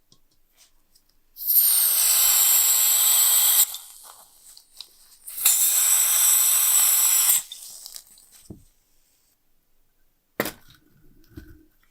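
Two bursts of spray from an aerosol can, each a steady hiss lasting about two seconds, with a pause between them, then a single sharp knock near the end.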